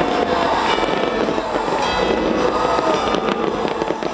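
Aerial fireworks crackling and bursting in a continuous barrage, with a few sharp cracks about three seconds in. Music plays along underneath.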